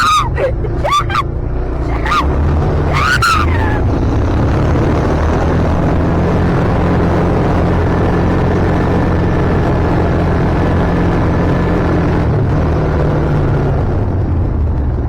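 Kawasaki ATV engine running steadily at a constant pace.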